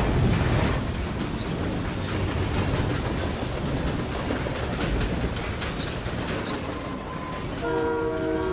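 Passenger train running on rails, a steady rumble with wheel clatter and occasional squeal. Near the end a train horn begins sounding, several tones held together as one chord.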